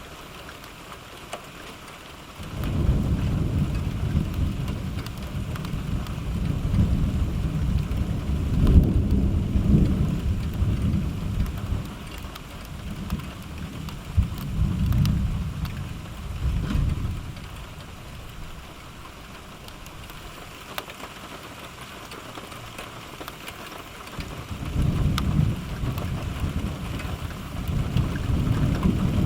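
Steady rain falling, with long low rolls of thunder. One starts about two seconds in and rumbles on in swells for some fifteen seconds, and another builds near the end.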